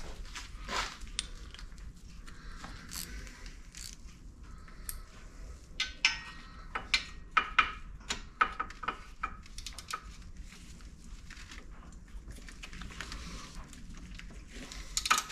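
Small metal clicks and clinks of hand tools and loose parts being handled on a workbench, irregular and coming thickest in a run of sharp clicks about six to ten seconds in.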